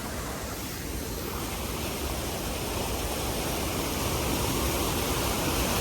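Waterfall water rushing in a steady, even roar that grows gradually louder.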